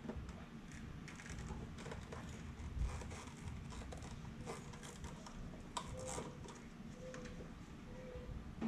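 Small parts and tools being handled: scattered light clicks and taps, with one low thump about three seconds in.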